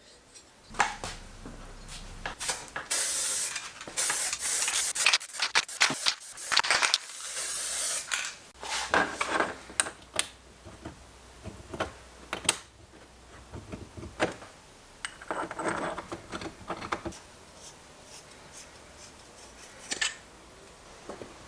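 Hand work on metal parts: short hissing sprays and rubbing, with scattered clicks and knocks, quieter ticking near the end.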